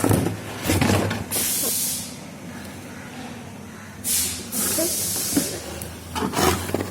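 Handling noise from unboxing a toy truck: knocks and rustling of the packaging, with two bursts of smooth high hiss.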